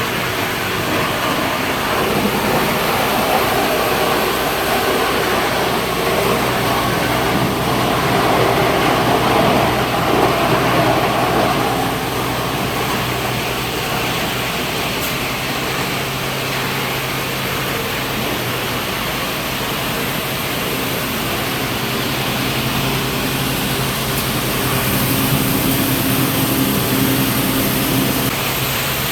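Double hammer crusher running while it crushes aluminum scrap: a loud, steady mechanical din over a low, even machine hum.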